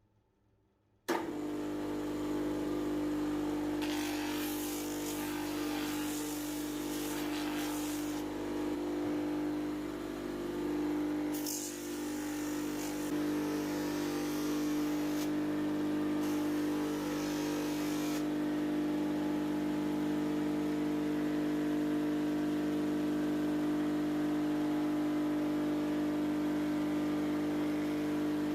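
An electric grinder switches on about a second in and runs at a steady pitch. It grinds rusty steel for two stretches of several seconds, then keeps running without contact.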